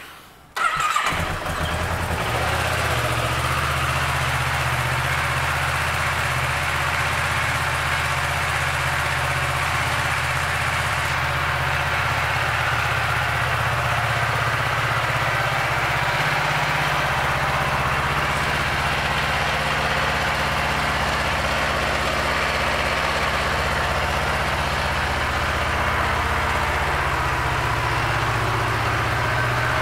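2012 Kawasaki Ninja 650's parallel-twin engine starting about a second in, catching at once, then idling steadily.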